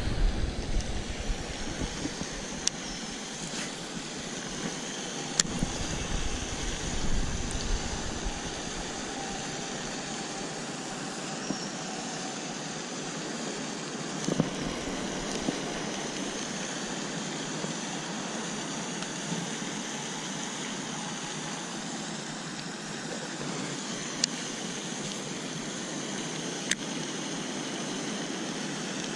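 A motor running steadily, with wind rumbling on the microphone for the first several seconds and a few light clicks.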